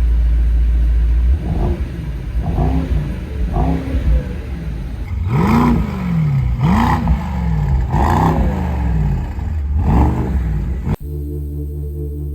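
Mercedes-AMG SL55's 4.0-litre twin-turbo V8 idling, then revved in a series of blips, three short ones followed by four stronger, longer revs, each rising and falling back. The engine cuts off suddenly near the end and electronic music takes over.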